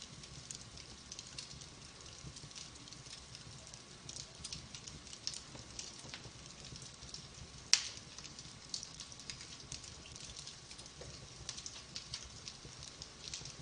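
Wood fire burning in a fireplace: soft, steady crackling with scattered small pops and one sharper snap about halfway through.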